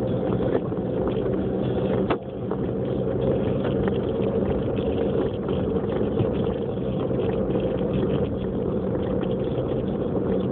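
Car cabin noise while driving: a steady engine hum under tyre and road noise, with a single sharp click about two seconds in.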